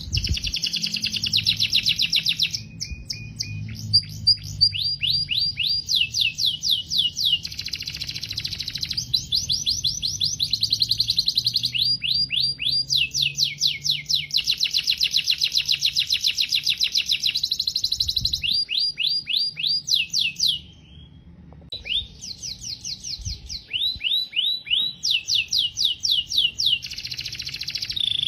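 Domestic canary singing a long song made of rapid trills, each a fast run of repeated high notes, with a brief pause about twenty seconds in.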